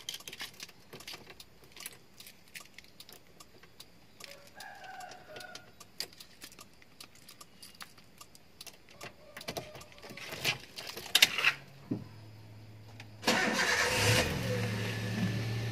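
Keys jangling and clicking as the ignition key is handled and inserted. Near the end the 2004 Toyota Avanza G's four-cylinder petrol engine cranks briefly, catches, and settles into a steady cold-start idle.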